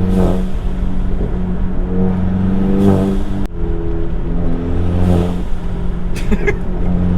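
Tuned Volkswagen Golf GTI MK7's turbocharged four-cylinder engine running under way, mixed with background music, with an abrupt cut about halfway through.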